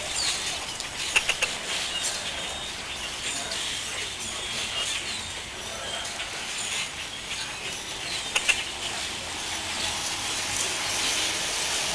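A large flock of grackles calling all at once: a continuous din of many overlapping high calls and short clicks.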